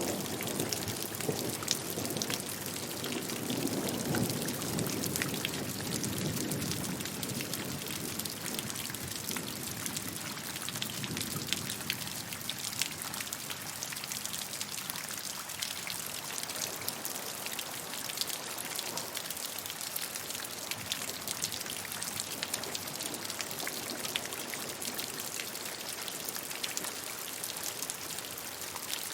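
Steady rain falling, with many separate drops ticking on a surface; a deeper splashing undertone fades away over the first ten seconds or so.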